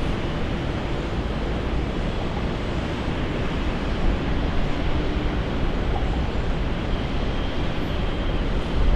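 Jet airliner engine noise: a steady, dense rumble with strong low end and no let-up.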